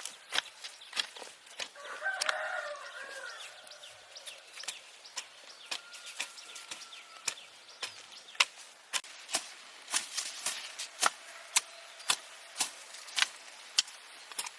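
Repeated sharp knocks of a tool striking wood, irregular at about two a second. A chicken calls briefly about two seconds in.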